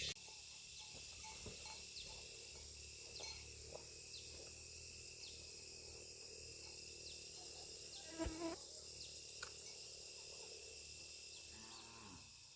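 Insects chirring in a steady, high-pitched drone, with scattered short chirps. A brief louder call comes about eight seconds in, and the sound fades near the end.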